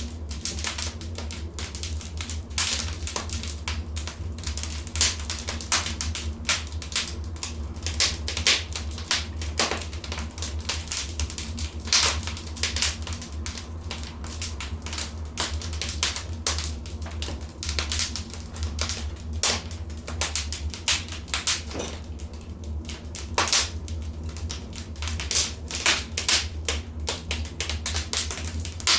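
Wood fire crackling in a fireplace: a dense, irregular run of sharp snaps and pops, some louder than others, over a steady low rumble.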